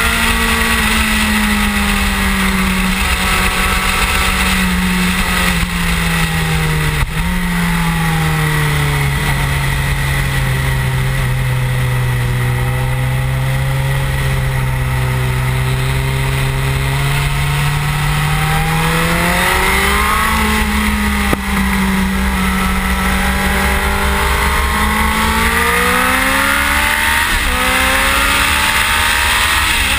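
Suzuki GSX-R1000 K7's inline-four engine running at speed, with a steady rush of wind over the microphone. The engine note falls and holds low through the middle, then rises twice as the bike accelerates.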